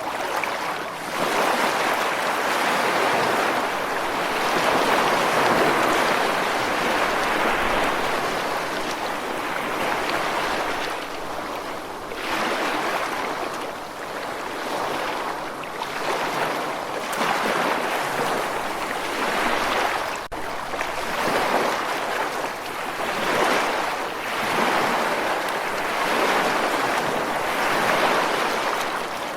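Ocean surf washing ashore: a continuous rush of breaking waves that swells and eases every few seconds.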